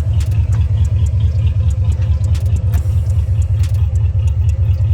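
Car engine idling with a steady low, evenly pulsing rumble.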